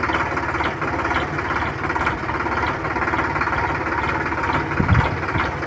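Tractor engine running steadily with an even pulsing beat, and one low thump about five seconds in.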